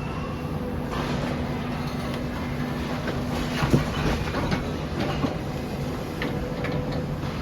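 Demolition excavator's engine running steadily, with a series of sharp metal clanks and knocks as it works, the loudest about four seconds in.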